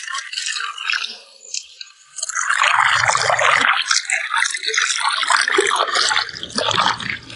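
Water splashing and trickling, much louder from about two seconds in, with a few low knocks.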